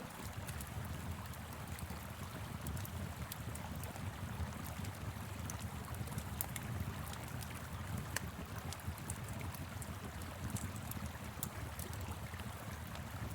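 Fire pit crackling with frequent sharp pops and snaps over the steady low rush of a flowing river.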